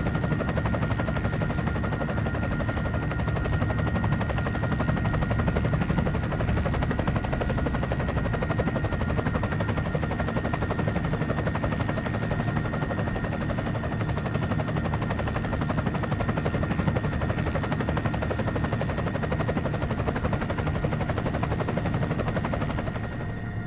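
Helicopter running steadily, a continuous rotor and engine noise with two faint steady high tones, cutting off at the very end.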